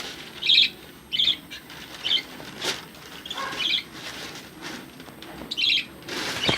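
Pet lovebirds chirping: a string of short, sharp, high calls about once a second, with a single sharp click near the middle.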